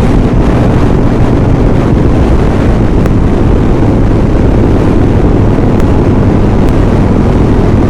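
Strong wind buffeting the microphone in a loud, steady rush, over the drone of a Harley-Davidson Sportster's V-twin engine at highway speed. The gusts are strong enough to push the motorcycle sideways.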